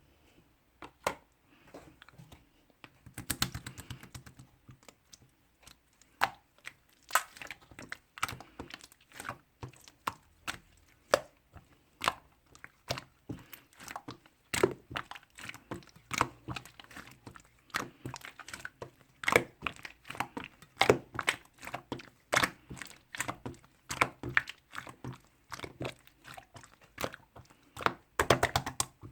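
Slime being pressed, stretched and poked by hand, making irregular sticky clicks and pops, with a quick flurry of them about three seconds in and again near the end.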